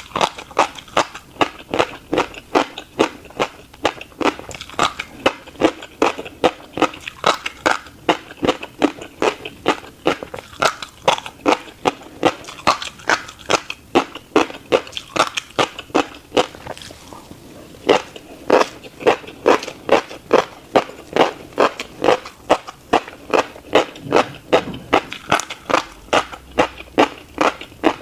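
Close-miked chewing of a mouthful of tiny black seeds: crisp, rhythmic crunches at about two to three a second, with a short pause a little past halfway before the chewing resumes.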